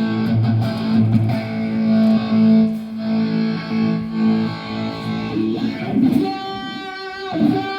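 Electric guitar played through an amplifier: held notes and chords, then about six seconds in a high note sustained with a wavering vibrato before it breaks off.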